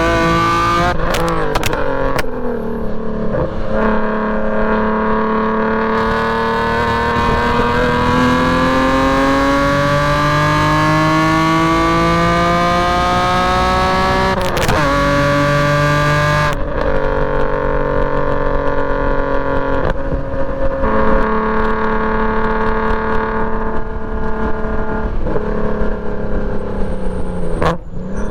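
BMW E46 M3's S54 straight-six with a straight-piped exhaust, driven hard through the gears: the engine note climbs as it revs out and drops sharply at each gear change. The longest pull rises for several seconds before a shift about halfway through.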